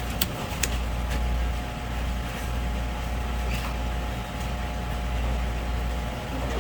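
Steady low machine hum with a faint steady whine above it, and a couple of sharp clicks in the first second.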